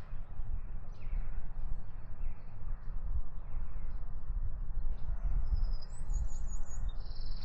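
Small birds chirping, with a short warbling phrase of song about two-thirds of the way through, over a steady rumble of wind on the microphone.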